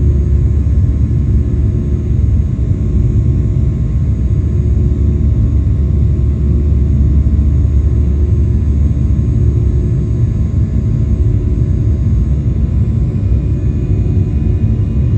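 Steady low roar of a Boeing 737-800's CFM56-7B turbofan engines at climb power, heard from inside the passenger cabin during the initial climb after takeoff, with airflow noise and a few faint steady tones above it.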